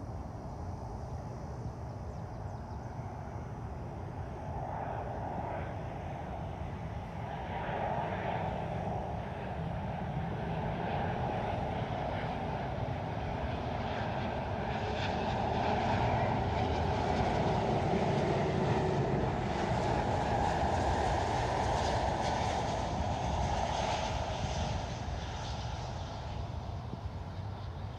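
A Boeing 777 jetliner's engines passing by: a steady jet rumble and whine that builds, is loudest a little past the middle, then fades.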